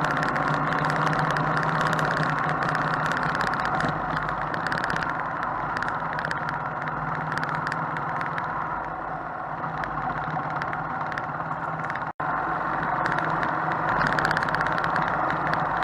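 Motorcycle engine running steadily under way, easing a little in the middle and picking up again near the end, with a momentary break in the sound about twelve seconds in.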